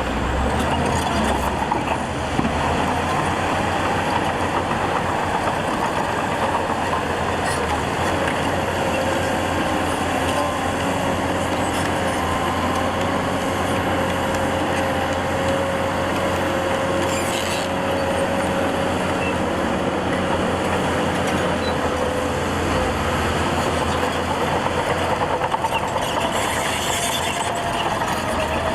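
Heavy diesel earthmoving machinery running steadily under load, with a faint whine that drifts in pitch through the middle. Two short hisses come a little past halfway and near the end.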